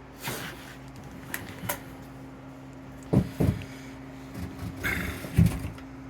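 A few knocks and thumps, the loudest two a little past three seconds in and another near the end, with short scraping rustles, over a steady low hum.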